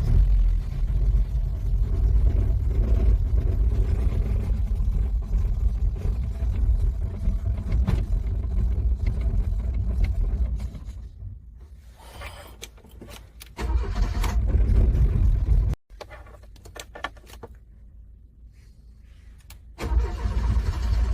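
Car engine cranking over in freezing cold, struggling to start, in long cranking attempts broken by quieter pauses, one of them cut off suddenly.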